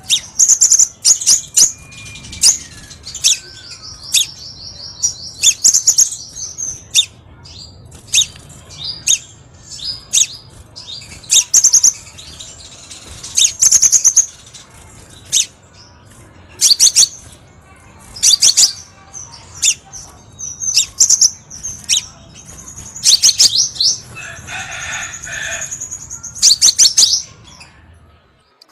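Crimson sunbird calling: a string of short, sharp, high-pitched chips about once a second, with two longer buzzy trills early on and near the end, over a faint low hum. The sound cuts off abruptly just before the end.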